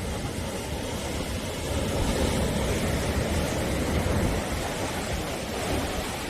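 Sea waves surging and washing onto the shore in a steady rush of surf, swelling a little louder through the middle as a wave comes in.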